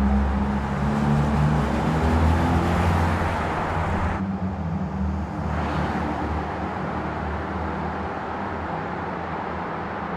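A car engine running steadily with road noise, its low hum carrying several steady pitches; the sound changes abruptly about four seconds in, losing its hiss, as at a cut between shots.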